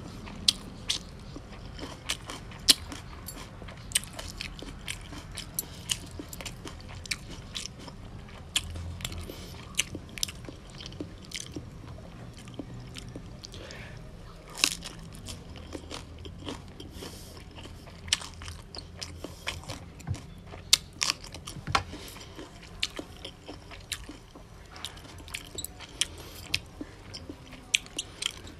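A person chewing and crunching mouthfuls of spicy raw salmon salad with fresh napa cabbage leaves, close to the microphone, with many sharp crunches throughout.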